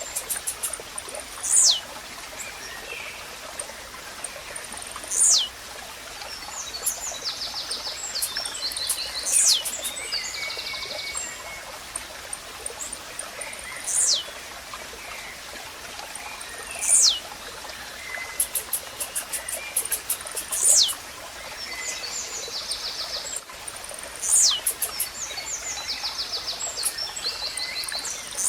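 Blue-black grassquit (tizil) singing its short, sharp note that falls steeply in pitch, repeated every three to four seconds, about eight times. Other small birds trill and chip between the songs over a steady rush of running water.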